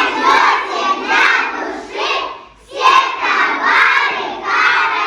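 A group of young children shouting a chant together in unison, in two loud phrases, the second starting about three seconds in.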